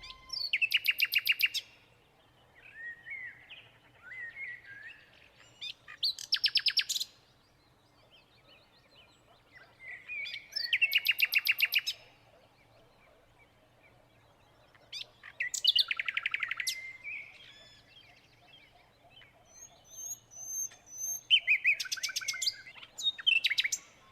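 A songbird singing: five loud, rapid trills, each a quick run of repeated notes lasting a second or two, about every five seconds, with softer short chirps in between.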